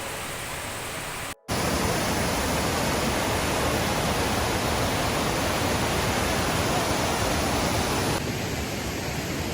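Steady rushing noise of a large waterfall. It drops out for a moment about a second and a half in, then carries on louder.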